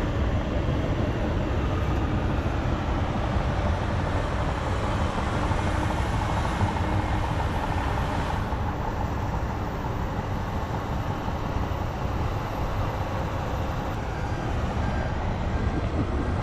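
Heavy diesel earthmoving equipment running steadily with a low engine drone. Near the end a backup alarm starts beeping faintly.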